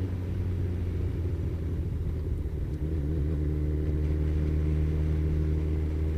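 Kawasaki ZZR1400's inline-four engine running at steady revs, a low continuous hum whose pitch wavers briefly and then settles about three seconds in.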